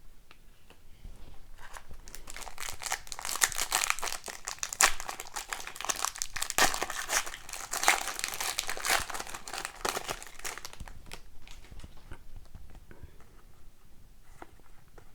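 A foil trading-card pack wrapper being torn open and crinkled for several seconds, followed by fainter rustling of cards being handled.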